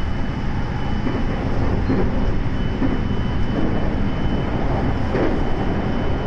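A JR West 223 series electric train running at speed, heard from inside its leading motor car. Wheels on rail give a steady low rumble, with a few louder knocks about two and five seconds in as it rolls onto a steel truss bridge. A faint thin high tone runs under it.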